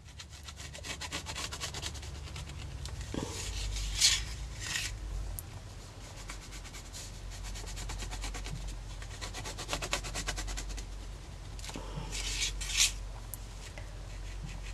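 White Pilot pen scribbling rapidly on a mixed media tag, a fast run of scratchy back-and-forth strokes, with louder flurries about four seconds in and again near twelve seconds.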